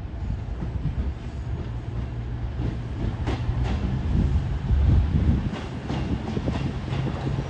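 Train moving along the platform with a steady low rumble and hum, with a run of light clicks from the wheels over rail joints in the middle.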